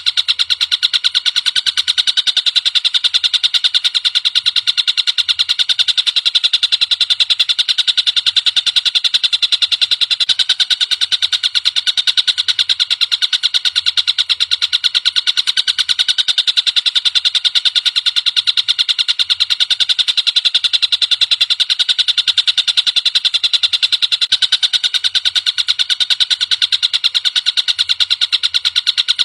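Collared kingfisher (tengkek buto) calling in a rapid, harsh, high-pitched chatter of evenly repeated notes, kept up without a break. It is a masteran recording used to teach caged songbirds the call.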